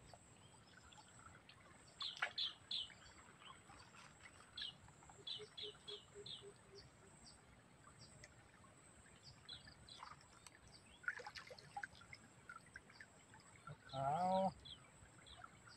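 Faint, scattered bird chirps over a low, steady hiss of flowing stream water. A short run of low, evenly spaced notes comes around six seconds in, and a brief vocal sound from a person about fourteen seconds in.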